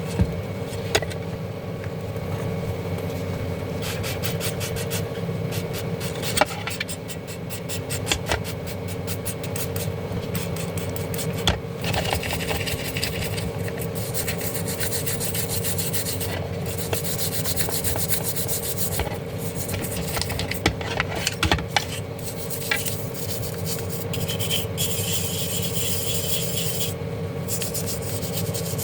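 Hand scraping and rubbing on small parts, in bouts of quick repeated strokes with scattered sharp clicks, over a steady low hum.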